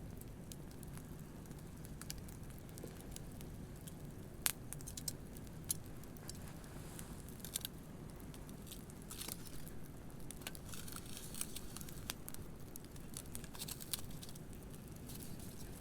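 Wood bonfire crackling, with irregular sharp pops and snaps, the loudest about four and a half seconds in, over a steady low wash of surf.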